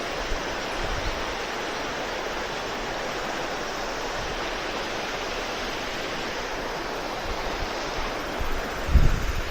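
Steady rushing water noise of a mountain stream under heavy rain. A low thump about nine seconds in.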